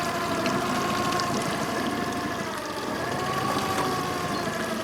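Vehicle engine idling steadily, heard from inside the cab, with a faint wavering whine over the running noise.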